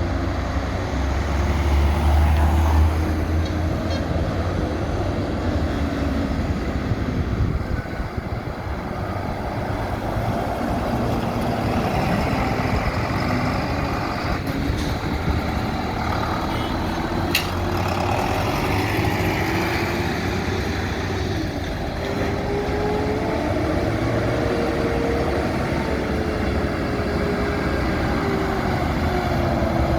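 Heavy vehicle engines running as trucks and tractors drive by in a slow convoy, a steady low rumble with the engine note slowly rising and falling. A heavy rumble swells about two seconds in, and a single sharp click sounds about halfway through.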